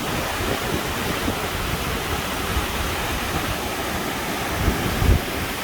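Steady rush of an alpine stream's flowing water, with low buffeting bumps on the microphone, the loudest about five seconds in.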